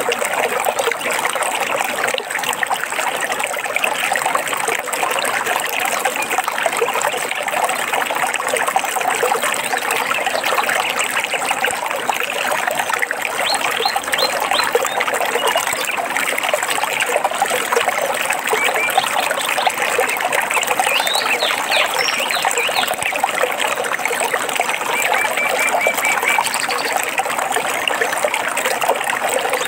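Water of a stream trickling and splashing steadily, with a few short, faint bird chirps over it about halfway through and again near the end.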